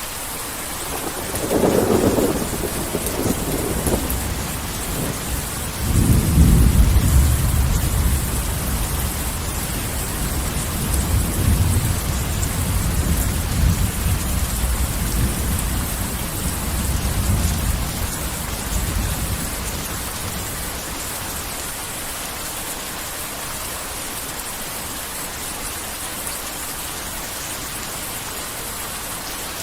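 Heavy rain falling steadily, with rolling thunder: a first rumble about a second and a half in, then a louder, deeper peal from about six seconds that rumbles on in swells and fades out around twenty seconds, leaving only the rain.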